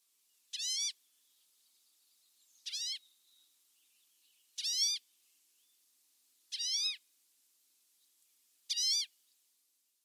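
A bird's short, nasal call, repeated five times about two seconds apart.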